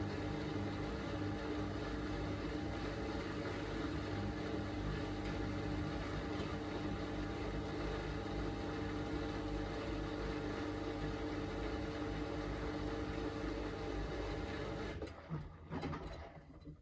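Miele Navitronic W3985 washing machine turning its drum to spread the laundry out after the main-wash drain, a steady motor hum with a few held tones. About fifteen seconds in it winds down and stops.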